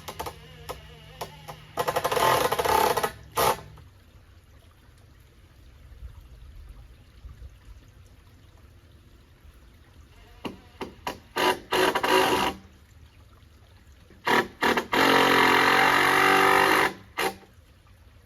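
A power tool's motor running in three short bursts of one to two seconds each, the longest near the end, with clicks and knocks from handling the work in between.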